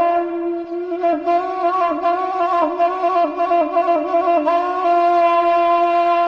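A reed-like wind instrument playing a wavering, ornamented melody, settling into a long held note near the end.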